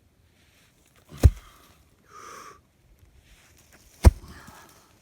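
Raking around a stump: two sharp thuds, about a second in and near the end, as the rake strikes the ground, with a brief scraping swish between them.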